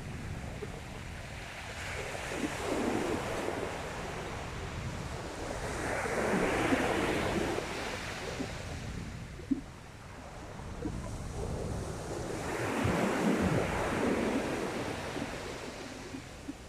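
Sea waves breaking and washing onto the beach, three swelling surges a few seconds apart, with wind rumbling on the microphone.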